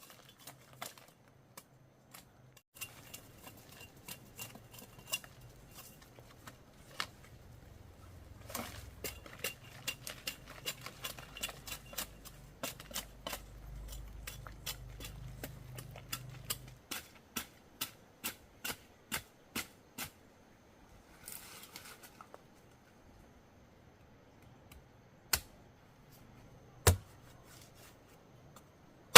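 Repeated sharp strikes of a hand tool digging out tubers, chopping into earth and roots, coming about two or three a second through the middle, with a low rumble underneath; two lone louder knocks near the end.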